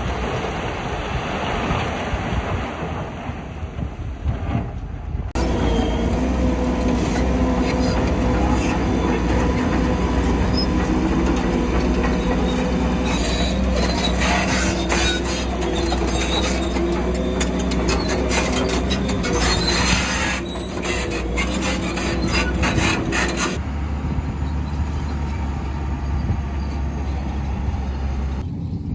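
Shantui crawler bulldozer working: its diesel engine runs steadily while the steel tracks squeal and clatter, most densely in the middle stretch.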